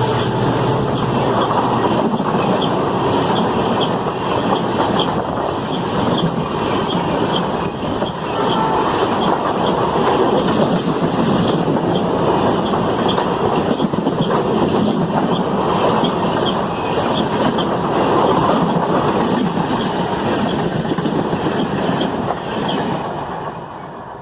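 Passenger train coaches rolling past at speed, wheels clattering over the rail joints in a steady rhythm of about two clicks a second. The sound drops away near the end as the train passes.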